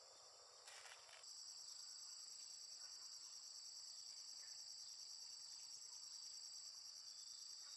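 Faint chorus of crickets, a steady high-pitched rapid trill, starting about a second in after a brief rush of noise.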